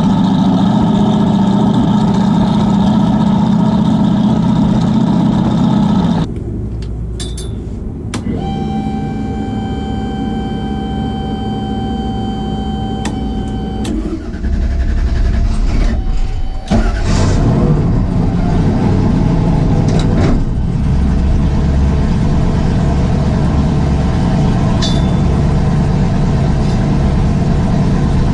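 1978 second-gen Camaro drag car's engine running steadily; about six seconds in it cuts to a quieter steady whine. The engine is then started and settles into an even idle.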